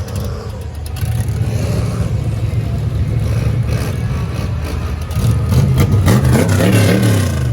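Big lifted truck's engine running hard while bogging through a mud hole, revving, with its pitch swinging up and down repeatedly in the last second and a half.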